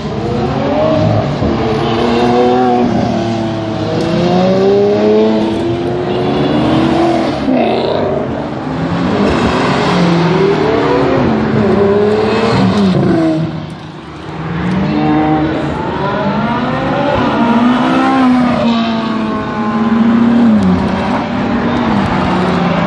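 A line of supercars, among them a Lamborghini and a McLaren, accelerating hard past one after another. The engines rev up through the gears, each pitch rising and then dropping at the shifts, with several cars overlapping and a short lull about fourteen seconds in.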